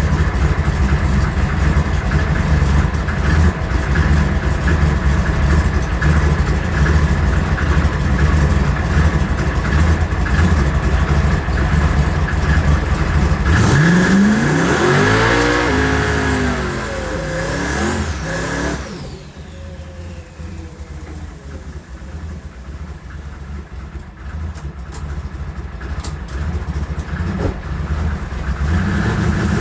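A drag race car's engine idles with a loud, lumpy rumble. About halfway through it launches, the revs climbing in several rising sweeps as it pulls away, then the sound drops off sharply and fades. A loud engine rumble builds again near the end.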